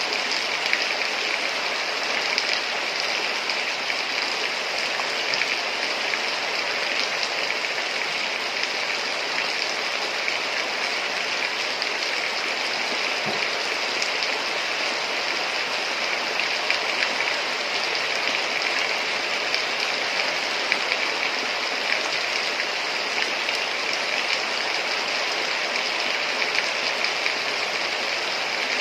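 Heavy rain falling steadily, a dense, unbroken hiss with many small drop patters.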